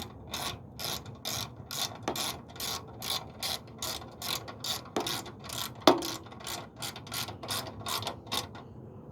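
Hand ratchet wrench clicking as it is worked back and forth on a bolt, a steady rhythm of about three clicks a second, with one louder knock near six seconds; the clicking stops shortly before the end.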